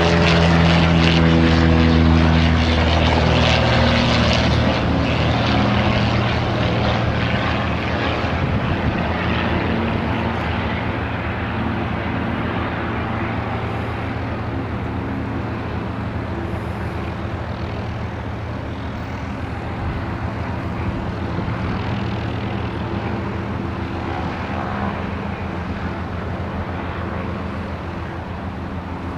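Propeller-driven light aircraft engine running loud, then fading steadily as the plane moves away. The engine's tone drops slightly in the first few seconds.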